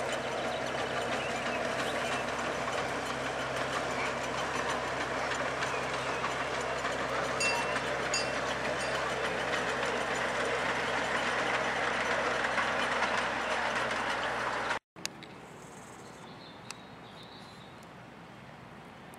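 Miniature railway train running, a steady rumble of wheels and engine with a low hum. About 15 s in it cuts off abruptly, leaving a much quieter background with a few faint clicks.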